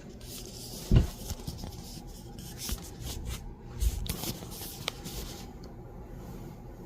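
Rustling and rubbing with a few scattered knocks, the loudest a thump about a second in.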